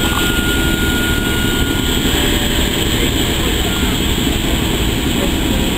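Steady rumble of a heritage train's passenger coaches moving along the platform, with a thin high squeal that stops about two seconds in.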